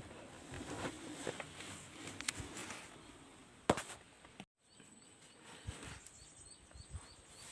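Rustling movement through forest undergrowth with scattered short knocks and one sharp click. After an abrupt break, faint evenly repeated high chirps, like an insect or small bird, continue about two a second.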